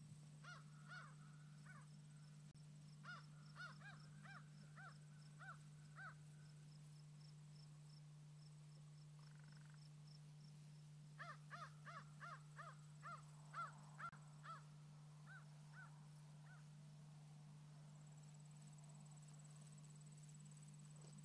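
Faint bird calls: runs of short, arching calls repeated a few times a second, in three bouts, over a steady low hum.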